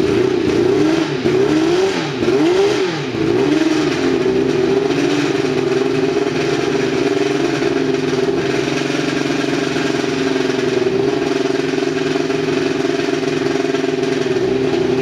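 March 85C Indycar's Cosworth DFX turbocharged V8 being blipped, the revs rising and falling about six times in quick succession over the first few seconds, then settling into a steady fast idle.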